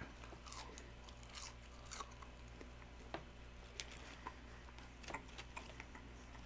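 A person chewing and biting fast food close to the microphone: faint, irregular crunches and mouth clicks.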